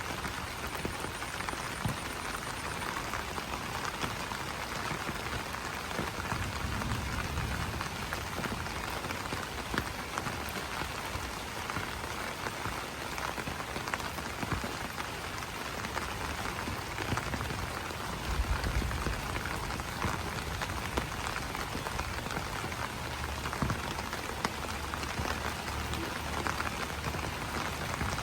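Rain falling on broad banana leaves: a steady patter of many individual drops tapping the leaves. About two-thirds of the way in there is a brief low rumble.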